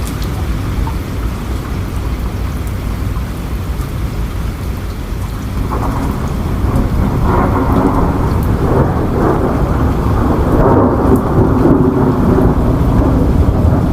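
Steady rain with a low rumble of thunder that swells and grows louder from about six seconds in.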